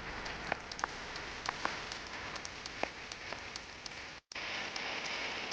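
Heavy rain falling with an even hiss, individual drops pattering close by. The sound cuts out for an instant about four seconds in and comes back as a denser, steadier hiss.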